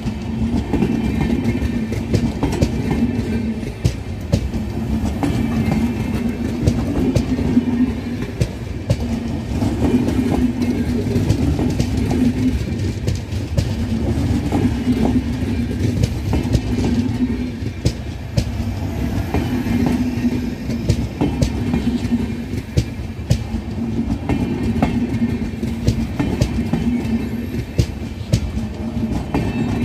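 A rake of Indian Railways LHB passenger coaches rolling past close by: a continuous rumble of running gear with a hum that swells and fades every couple of seconds, and wheels clicking over rail joints in a steady clickety-clack.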